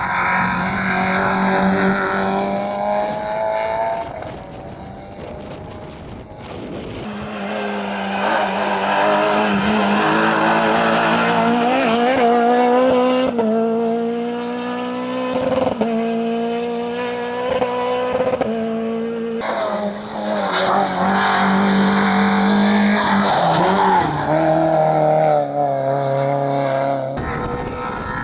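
Rally cars at full throttle on a hillclimb stage. One car's engine revs up and fades away in the first few seconds, then a second car comes through loud, its engine note climbing and dropping back repeatedly as it shifts gear and brakes for corners.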